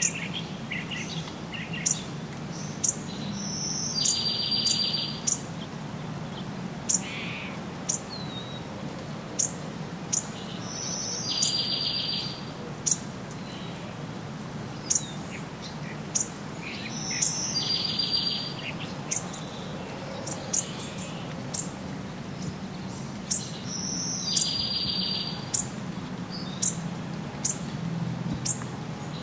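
Birds calling. One bird repeats a two-part call about every six seconds, a high note then a buzzy trill about a second long, among many short, sharp high chirps. A faint steady low hum runs underneath.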